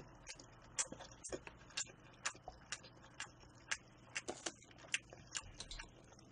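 Close-miked chewing of a mouthful of yukhoe sushi (seasoned raw beef on rice): soft, wet mouth clicks and smacks at an irregular few a second.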